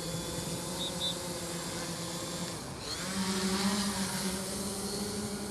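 Multirotor drone's electric motors and propellers humming steadily, then rising in pitch and getting louder about three seconds in as it speeds up in manual flight.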